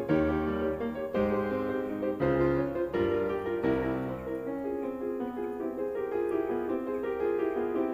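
Background piano music: chords struck about once a second, softening into gentler held notes in the second half.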